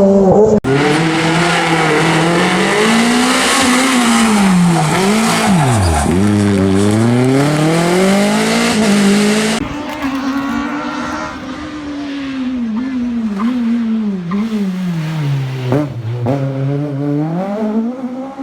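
A Renault Clio rally car's four-cylinder engine revving hard as it passes on a stage. The pitch climbs through the gears and dips sharply as the driver lifts and changes down, with a deep drop and climb about six seconds in. The sound changes abruptly twice where the footage cuts between passes.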